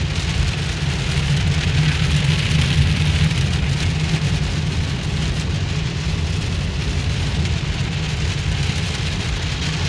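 Heavy rain falling on a car's roof and windshield, heard from inside the cabin, over the low steady rumble of the car driving on the road.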